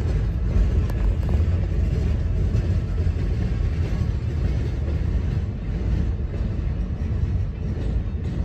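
Steady low rumble of a freight train's loaded log gondola cars rolling past, heard from inside a car.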